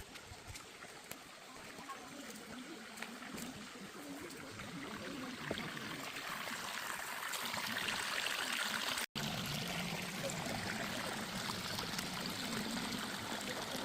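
Rainforest waterfall and creek rushing, growing steadily louder as the falls are approached. The sound breaks off for an instant a little after nine seconds, then runs on at the same level.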